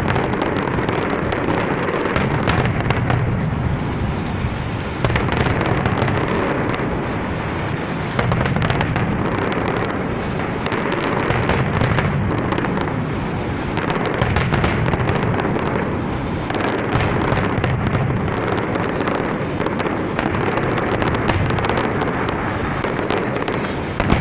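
Fireworks going off in a continuous barrage: many overlapping bangs and crackles with no break, a few sharper blasts standing out along the way.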